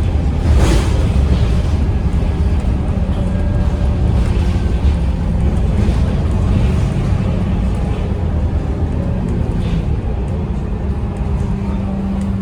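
Scania K230UB bus's 8.9-litre Scania DC9 five-cylinder diesel engine running steadily with a deep rumble, with a brief hiss about half a second in.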